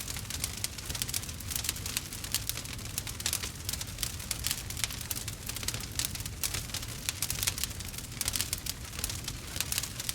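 Wood fire crackling and popping, a dense steady run of sharp snaps over a low rumble.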